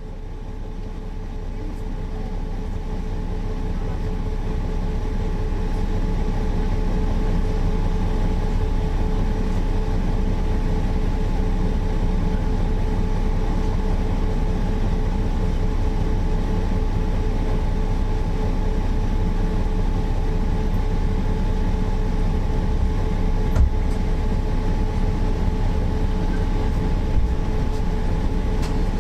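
Mercedes-Benz O408 bus under way: its six-cylinder diesel and running gear give a steady low rumble with two steady whining tones over it. The sound builds over the first few seconds, then holds.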